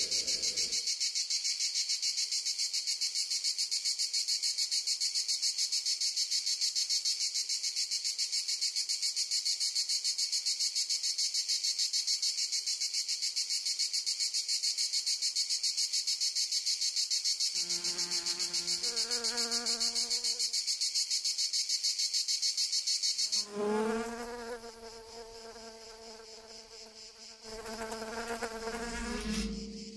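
Loud, steady, fast-pulsing high-pitched insect chirring, as of a summer insect chorus, which cuts off suddenly about 23 seconds in. A few short pitched tones sound shortly before the cut-off, and afterwards a lower, steady buzzing hum with several tones carries on.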